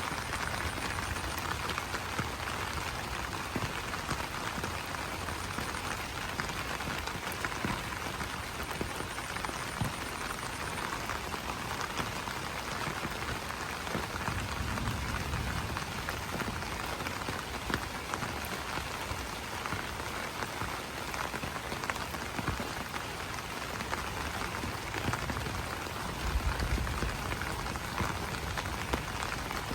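Steady rain pattering on broad banana leaves, a dense even hiss with many small individual drop taps.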